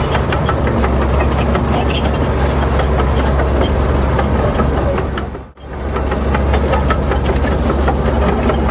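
Heavy earthmoving machine's diesel engine running steadily with a low drone, overlaid by frequent clanking and rattling. The sound drops out sharply for a moment about five and a half seconds in, then returns unchanged.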